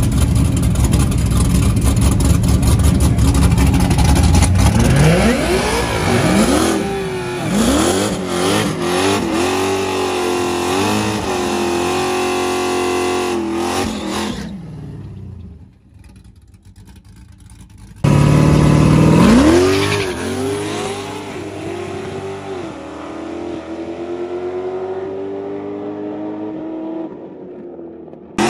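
Drag cars launching down the strip, two runs: each engine revs hard, its pitch climbing and dropping back at every gear shift, then fades as the car pulls away. Loud engine noise at the start, and a few seconds of much lower level between the two runs.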